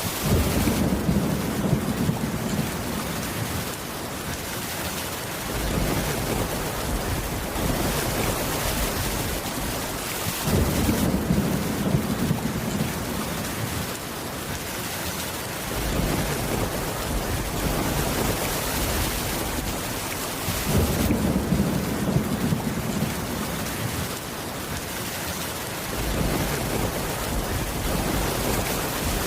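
Steady heavy rain with low thunder rumbling three times, about ten seconds apart.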